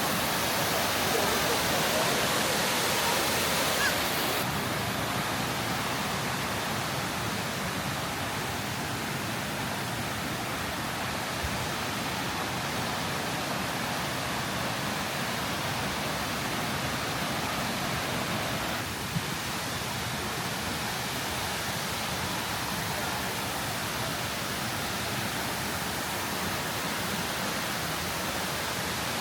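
Kuang Si Waterfall's cascades rushing: a steady hiss of falling water, a little brighter for the first four seconds or so.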